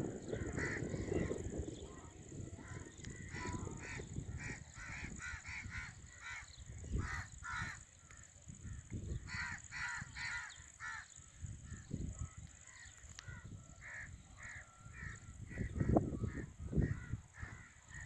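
Birds calling in quick runs of short repeated notes through most of the stretch, over a low rumble on the microphone that swells near the end.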